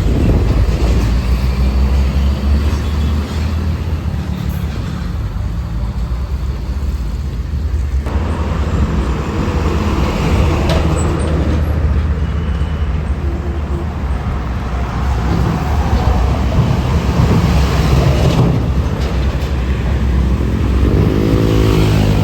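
Heavy road traffic: buses and trucks passing close by, their engines running loudly and continuously.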